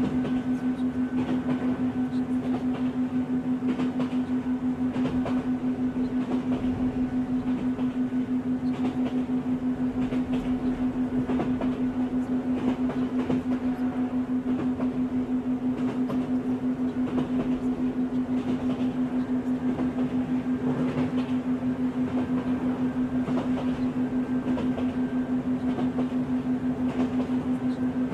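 A steady low hum tone from a 6 Hz theta binaural-beat track, throbbing rapidly and evenly, laid over a recorded train running on its rails with a rumble and faint clicks.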